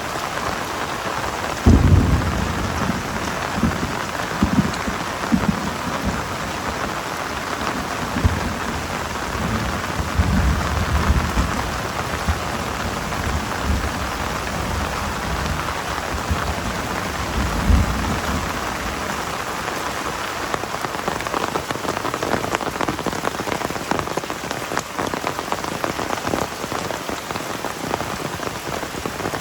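Heavy rain falling steadily in a dense hiss. Through the first half or more, deep low rumbles come and go, the loudest starting suddenly about two seconds in and another near the end of the rumbling.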